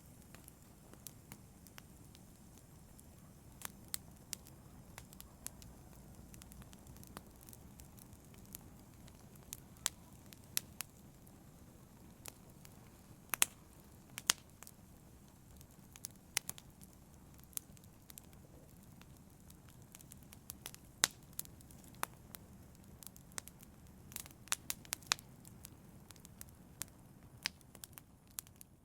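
Wood fire crackling in a fireplace: irregular sharp pops and snaps, several a second at times, over the steady low rush of the flames.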